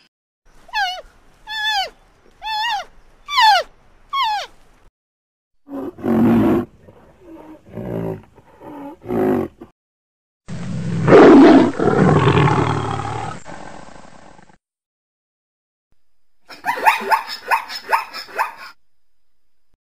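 A string of different animal calls: five short falling cries, then a run of lower calls, then a long, loud lion roar starting about ten seconds in, then a quick series of calls near the end.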